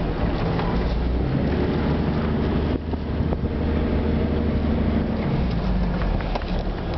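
A vehicle engine running while driving down sand dunes, heard from inside the cab. Its low note shifts up and down a few times.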